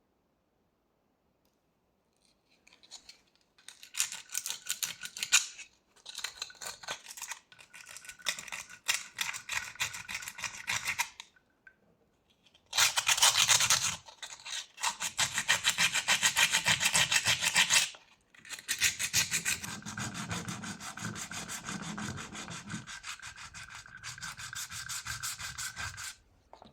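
Rapid back-and-forth rubbing on a hard surface, like hand sanding or brushing, in several bursts of a few seconds separated by short pauses.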